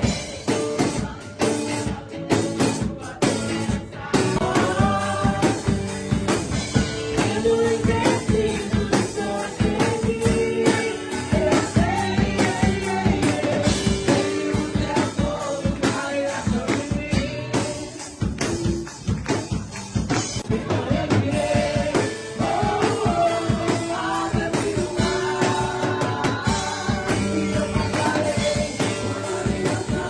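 Gospel worship song performed live by a church praise band: singing voices over a full band with drums and steady percussive beats.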